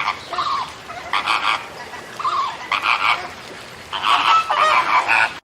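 Waterfowl calling: a run of short, honking calls, some rising and falling in pitch, about seven in five seconds.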